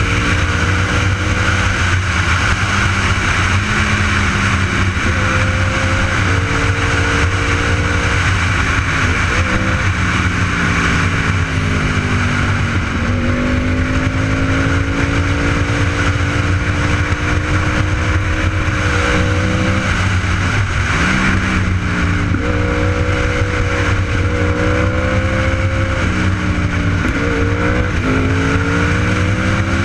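Superbike engine running under way, its pitch rising and falling with the throttle, with a dip and climb about twelve seconds in and again around twenty seconds in, over a steady rush of wind noise.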